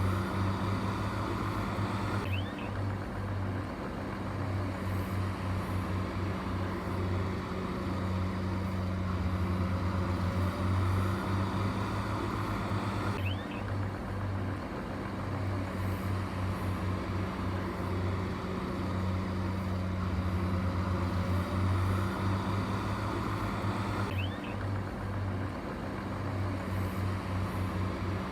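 Heavy earthmoving machine's engine running steadily, a low hum that pulses on and off rapidly. The same stretch of sound repeats about every eleven seconds, as a loop would.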